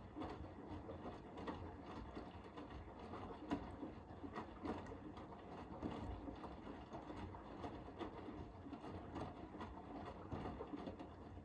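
Hoover H-WASH 500 washing machine drum turning, laundry and water tumbling and sloshing with a stream of small knocks during the cotton 60 wash. The drum stops at the end, a pause in the tumble pattern.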